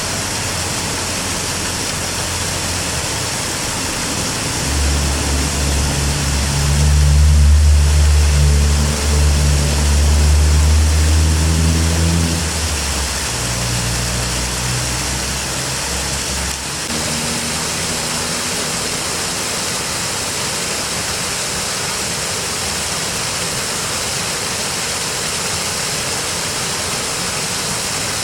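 Steady rush of river water, with a motor vehicle's engine passing from about five seconds in, rising in pitch in a few steps as it speeds up. It is loudest around seven to twelve seconds in and fades by about seventeen seconds.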